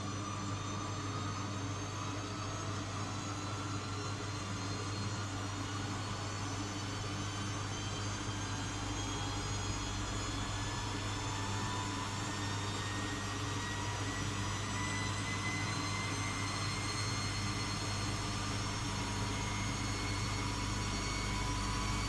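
Miele W Classic washing machine's drum motor speeding up into an interim spin in a Cotton 90 °C cycle: a whine that climbs slowly and steadily in pitch over a constant low hum, growing a little louder near the end.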